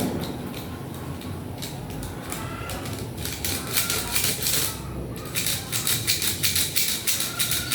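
Rapid clicking and rattling of small plastic and metal parts from a Philips stereo being handled and pulled apart, sparse at first, then in quick runs of about three to four clicks a second from about three seconds in.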